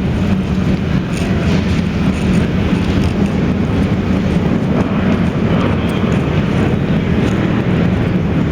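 Steady low rumble of running engines, unchanging throughout.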